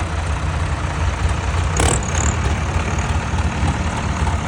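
Tractor diesel engine running steadily with a heavy low rumble, with a brief high-pitched squeak about two seconds in.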